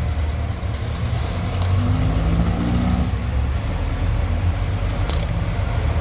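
Steady low mechanical rumble, with a short sharp hiss about five seconds in.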